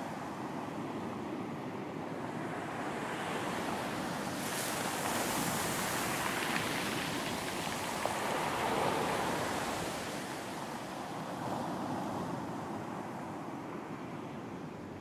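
Sea waves breaking on a beach. A wave builds about three seconds in, breaks with a hiss around five seconds, and washes up and back before easing off toward the end.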